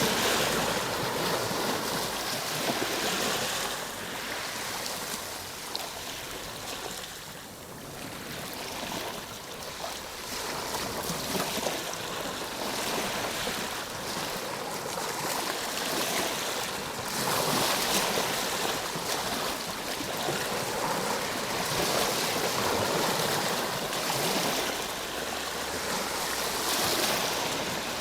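Ocean surf: a continuous rush of waves breaking and washing ashore, swelling and falling back every few seconds, with a softer lull about a quarter of the way through.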